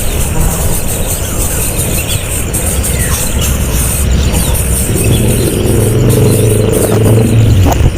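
A motor vehicle's engine running, its even hum rising out of a steady low rumble about halfway through and fading near the end.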